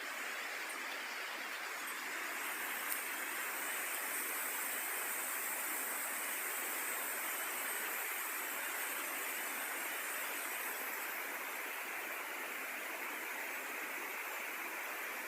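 A steady, even rushing noise with a high hiss and no distinct tones, with one faint click about three seconds in.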